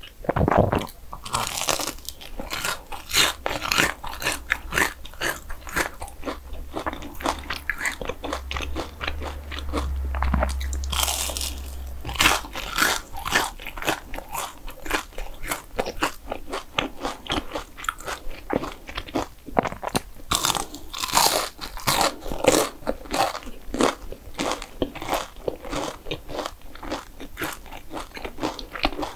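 Close-miked eating of crunchy desserts: a person biting and chewing, with many crisp crunches in quick succession. A low hum sits underneath from about six to twelve seconds in.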